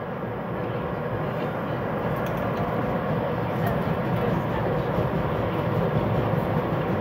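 SEPTA Regional Rail train running, a steady rumble heard from inside the passenger car, growing louder over the first couple of seconds.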